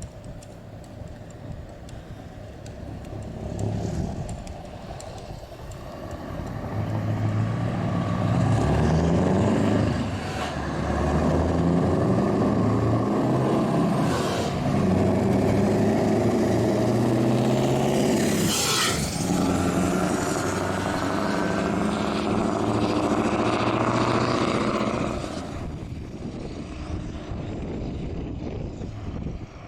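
Scania R520 16-litre V8 truck engine running through open exhaust pipes. It grows loud a few seconds in and stays loud for most of the time, its note stepping up and down, with a brief high hiss a little past the middle. It drops back to a quieter run near the end.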